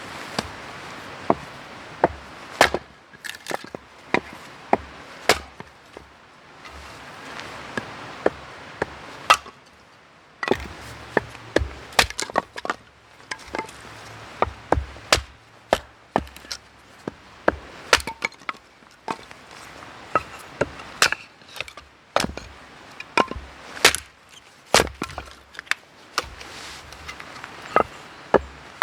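Repeated chopping into wood: sharp, irregular strikes, roughly one or two a second.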